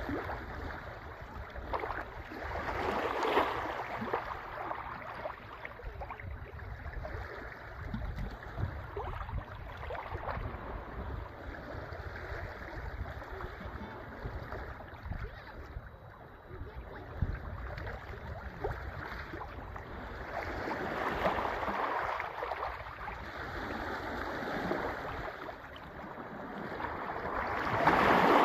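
Sea waves washing in and drawing back in an even rush, swelling louder three times: about three seconds in, past the middle, and at the end. Wind buffets the microphone with a low, uneven rumble underneath.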